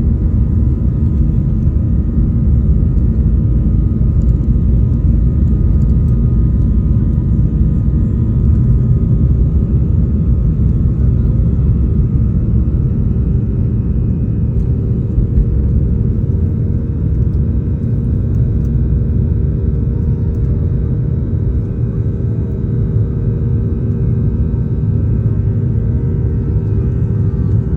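Boeing 737-800's CFM56-7B jet engines at takeoff power: a loud, steady rumble with several steady engine tones held above it.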